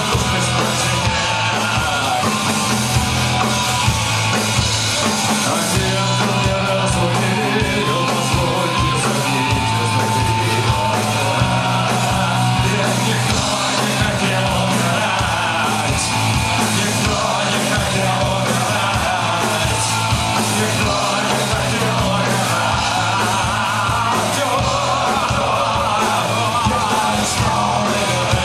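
A punk rock band playing live, loud and continuous, with a steady drumbeat and sustained bass under dense guitar sound.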